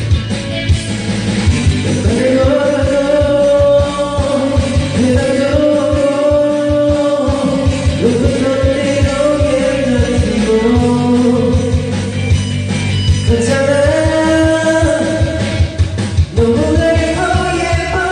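A voice singing long, held notes over a karaoke backing track with a steady beat.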